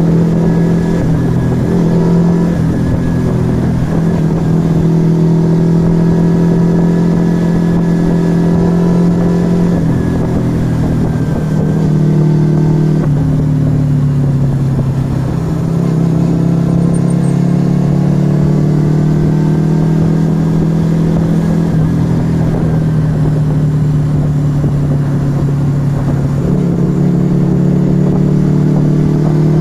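Yamaha XV125 Virago's small air-cooled V-twin running through an aftermarket Turbo Kit exhaust under way. The engine note holds steady, drops sharply a few times and climbs back as it pulls again.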